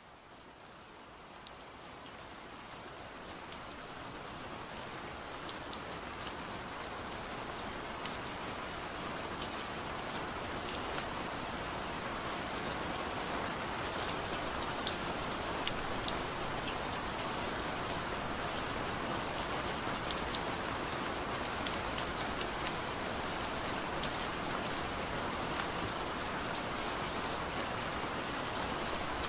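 Steady rain falling: a dense, even hiss with many small, sharp drop ticks scattered through it. It fades up gradually over the first several seconds, then holds steady.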